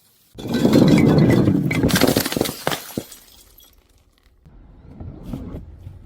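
Something brittle being crushed with a loud crunch starting about half a second in, then near two seconds a brighter crack of breaking glass and a few sharp clinks, fading out after about three seconds.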